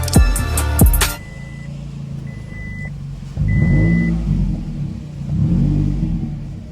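Music with drums cuts off about a second in, leaving a car engine running with two swells in revs, one about halfway through and one near the end. Three short high electronic beeps sound over it.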